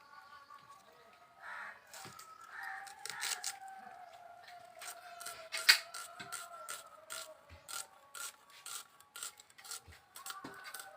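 A run of irregular sharp clicks and scraping, with a faint steady tone that drifts slowly lower beneath them.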